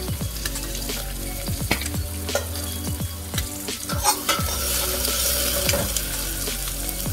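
Ham sizzling and frying in a pan on a gas stove, with a metal utensil clicking and scraping against a second pan as it is stirred.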